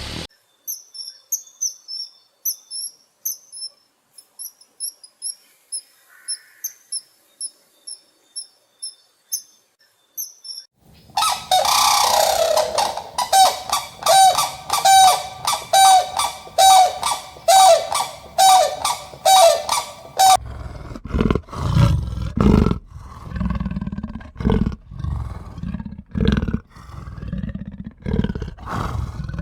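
A run of animal calls: high, quick chirps for about ten seconds, then loud calls repeated about twice a second, then low pulsing grunts in the last third.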